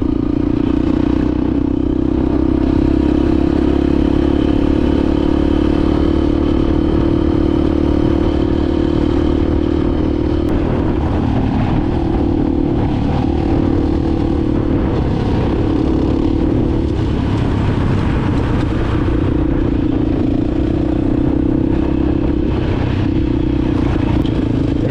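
Honda XR250 Baja's single-cylinder four-stroke engine running while riding. The note holds steady for about the first ten seconds, then dips and rises repeatedly with the throttle, over a low rumble.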